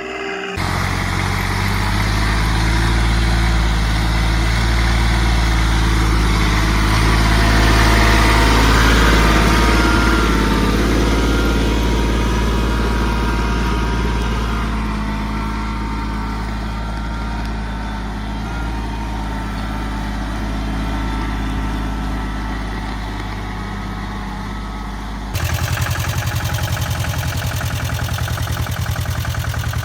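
Small tractor engine running steadily under load. Near the end it cuts abruptly to another engine with a fast, even chugging.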